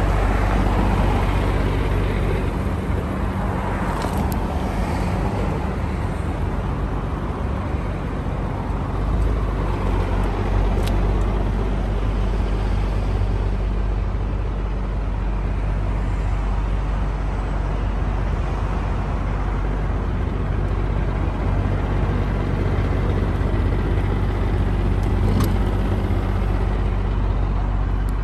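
Nissan Skyline GT-R R34's RB26DETT twin-turbo straight-six idling steadily through a NISMO NE-1 exhaust, heard from inside the car with the door open. A few light clicks come over it.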